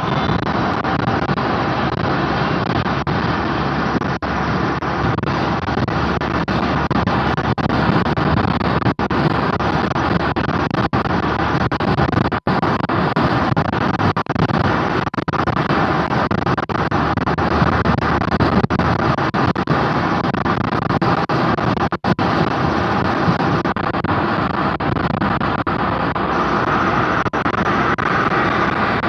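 Audi A4 B7 on the move, with a steady, loud rush of road and tyre noise; no distinct brake squeal stands out.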